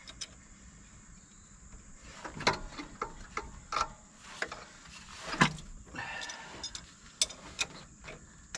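Scattered metallic clicks and clanks from a wrench on the crankshaft bolt as a Ford FE big-block V8, its spark plugs out, is turned over by hand. The engine is being worked past a sticky spot of built-up crud on a cylinder wall after more than 20 years of sitting. The loudest clank comes about halfway through.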